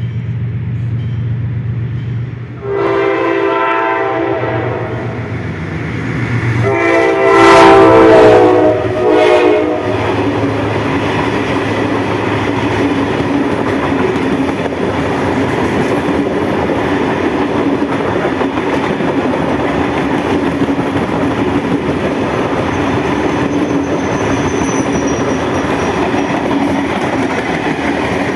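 A diesel-hauled passenger express approaching at speed sounds its horn twice: a short blast about two and a half seconds in, then a louder, longer blast about seven seconds in. The train then runs past with a steady rumble and clatter of coach wheels on the rails.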